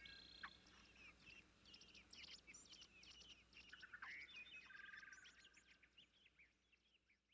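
Faint songbirds chirping and twittering in quick high notes, with a few held whistled notes, dying away near the end.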